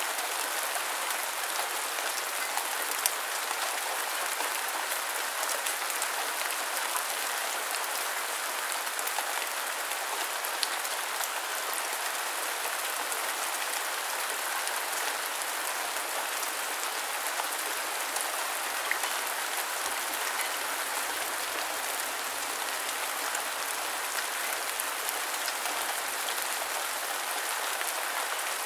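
Steady rain falling, an even hiss of many drops with a few sharper, louder drop hits now and then.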